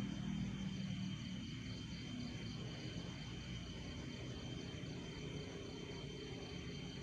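Crickets trilling steadily: one unbroken high tone with a faster pulsing chirp above it, and a low hum that fades out about a second in.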